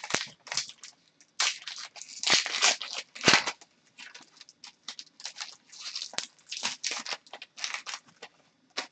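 Trading cards and their foil pack wrappers being handled: a run of short, irregular crinkling and tearing rustles, loudest in the first half.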